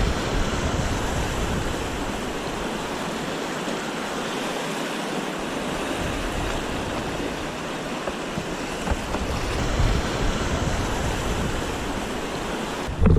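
Steady rushing noise of wind and moving river water, even throughout with no distinct events.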